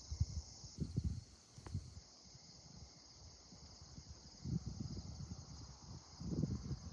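Crickets chirping in a steady high chorus, with gusts of light breeze buffeting the microphone a few times.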